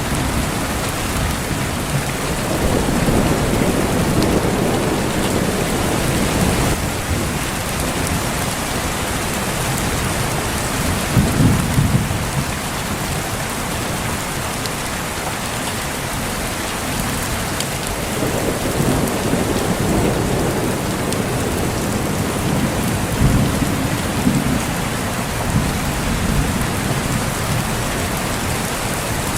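Steady heavy rain falling, with low rumbles of thunder that swell and fade several times, the strongest a little over ten seconds in and again near the end.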